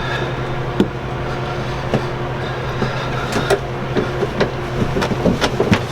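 Hose and hose clamp being handled and pushed back onto the air-conditioning sea strainer fitting: scattered small clicks and knocks, more frequent in the second half, over a steady machinery hum.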